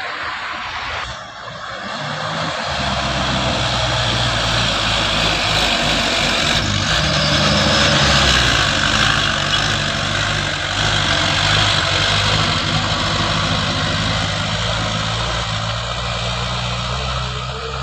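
Heavy truck engine running under load. Its low drone comes in a couple of seconds in, grows louder toward the middle and eases slightly near the end, over a steady hiss of road and wind noise.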